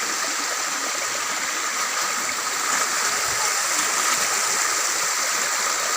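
Steady rushing water from a stream or waterfall, with no breaks.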